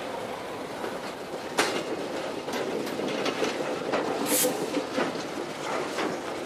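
Railway hopper wagons rolling past close by: a steady rumble with the wheels clicking and knocking on the rails about once a second, and one brief high squeal about four seconds in.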